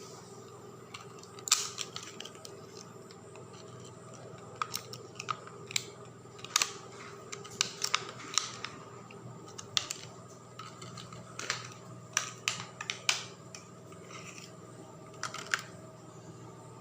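A series of irregular short, sharp clicks and taps over a steady low hum.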